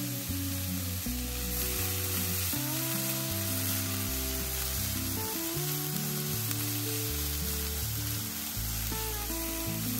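Diced onion and garlic sizzling in oil in a nonstick frying pan, stirred with a silicone spatula. Background music of slow, held low notes plays underneath.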